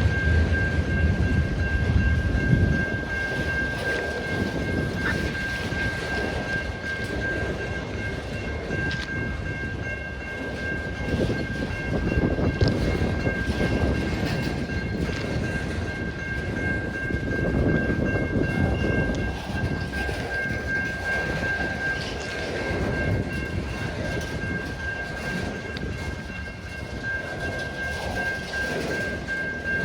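CN freight train's cars rolling past, a continuous low rumble with rail clatter that swells and eases, under a steady high-pitched ringing tone.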